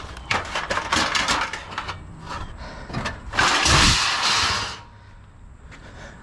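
Scrap being handled and loaded: a quick run of knocks and clatter, then, about three and a half seconds in, a loud scraping rush with a low thump that lasts about a second and a half.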